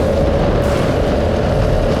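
Go-kart engine running hard at high revs while the kart drives along, one steady engine note that climbs slowly, with heavy wind rumble on the microphone.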